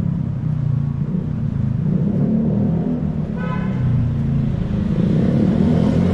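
City street traffic: a steady low rumble of vehicles, with a short car horn toot about three and a half seconds in.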